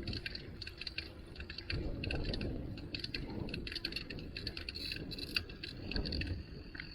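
Bicycle rattling and clicking steadily as it is ridden along the street, over a low rumble of wind and road noise that swells about two seconds in and again near six seconds.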